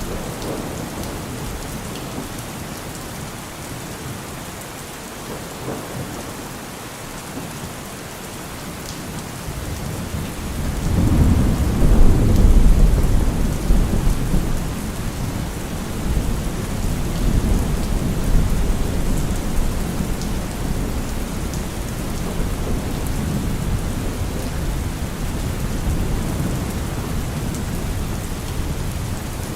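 Steady rain falling on trees, with a long roll of thunder that builds about a third of the way in, is loudest a few seconds later, then trails off into a lower rumble under the rain.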